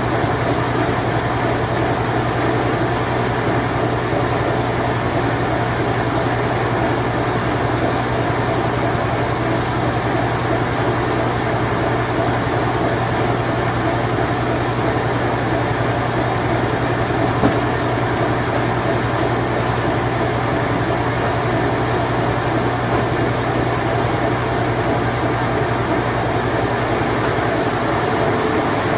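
Whirlpool Imperial Clean Touch washing machine, late-1980s era, running with a steady motor hum over an even mechanical noise. The low hum drops out shortly before the end.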